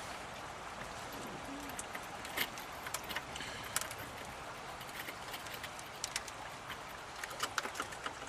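Light metallic clicks and clinks, scattered and irregular, of a socket wrench being fitted onto the nuts on a truck's front axle, over a steady background hiss.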